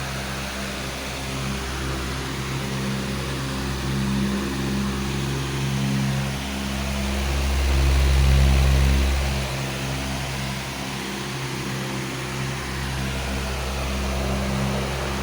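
A powerful electric fan running steadily: a low motor hum under a broad rush of air, swelling slightly about halfway through.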